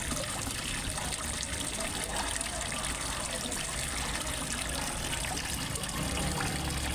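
Water from a small fish-pond waterfall, trickling and splashing steadily.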